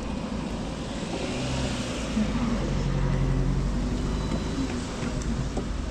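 Road traffic: a motor vehicle's engine hum and tyre noise swell and then fade as it passes, over a steady low rumble.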